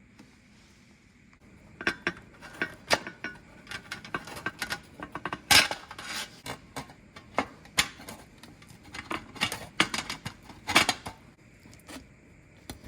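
Metal pieces knocking and clinking together as they are handled, in an irregular string of sharp clanks with short rings. The sound fits the stainless steel tray and iron fittings being worked into a fire pit.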